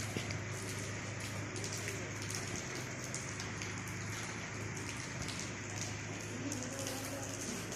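Steady rain falling, with individual drops ticking now and then over the even hiss, and a faint low hum underneath.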